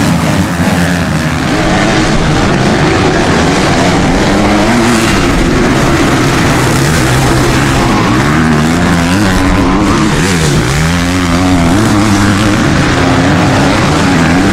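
Several motocross motorcycle engines racing, their pitch rising and falling over and over as the riders rev, shift and back off.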